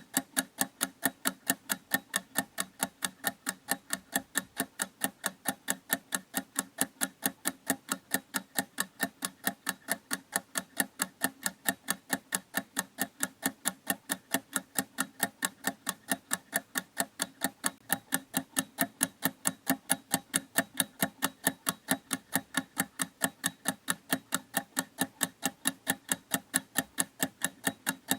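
Clock ticking in an even, unbroken rhythm of several sharp ticks a second.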